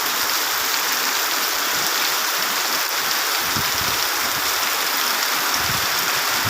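Heavy rain falling steadily: a dense, even hiss of downpour with no break.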